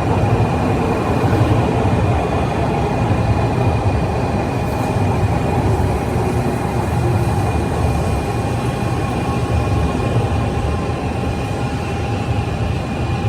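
Train running with a steady low rumble and a steady whine.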